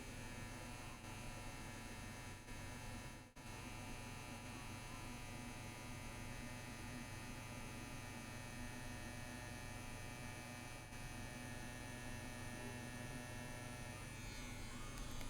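CNC WE tattoo machine buzzing steadily as it runs, tattooing lines into practice skin, with a brief break about three seconds in.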